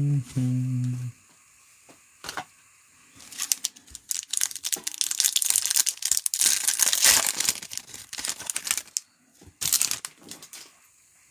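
Foil wrapper of a trading-card pack being torn open and crinkled, a dense crackle lasting several seconds. In the first second there is a short run of steady tones that step in pitch.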